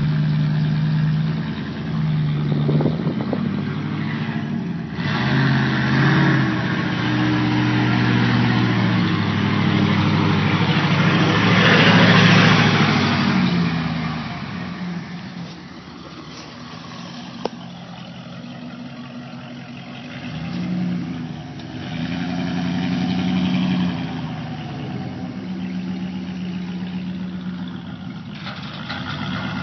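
Ford F-150 pickup engine running and revving up and down in steps, loudest about halfway through, then dropping to a lower, steadier run with a few short revs. One sharp click is heard in the quieter part.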